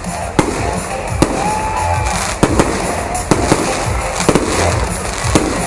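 Fireworks display: sharp bangs of shells bursting, about eight or nine at uneven intervals, over a continuous crackling rumble.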